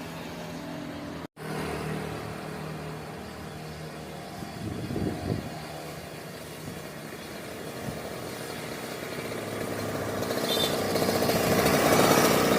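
Tuned motor scooter engine running, cutting out abruptly for an instant just over a second in, with a short rise in revs around five seconds, then growing steadily louder from about nine seconds on as it revs up or closes in.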